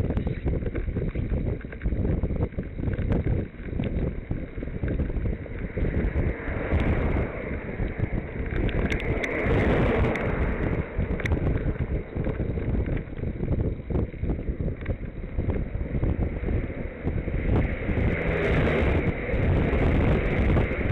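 Wind buffeting the microphone of a camera on a moving bicycle, a dense, uneven rumble, with hissy swells in the middle and near the end.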